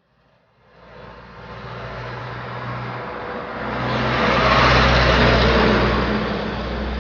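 A motor vehicle passing close by: engine hum and road noise build up over a few seconds, are loudest about five seconds in, then begin to fade.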